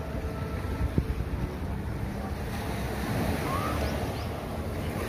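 Beach ambience: waves washing on the shore with wind buffeting the microphone, a single sharp click about a second in, and faint voices in the distance.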